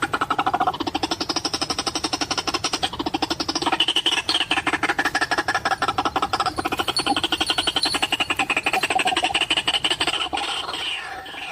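White-breasted waterhen calling: a long, rapid, pulsing chatter of many notes a second, whose pitch shifts in steps, easing off near the end.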